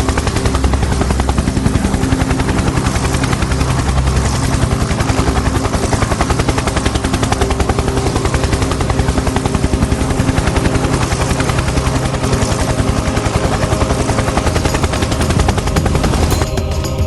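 Helicopter in flight: the rotor's rapid, steady chopping over the turbine's drone. It changes abruptly just before the end, where music takes over.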